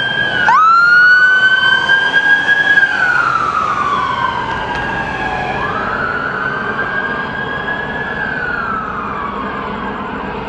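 Emergency vehicle sirens wailing. One siren sweeps up quickly about half a second in, holds its high pitch, then falls slowly; a second siren's wail overlaps it from about three seconds in.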